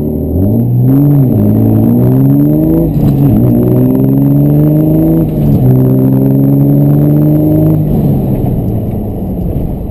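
Compound-turbocharged 5.9 Cummins inline-six diesel pickup accelerating hard at full throttle in four-wheel drive, pulling up through the gears. The engine note climbs in steady pulls, dropping at gear changes about three and five and a half seconds in, and falls away when the throttle is lifted near the end.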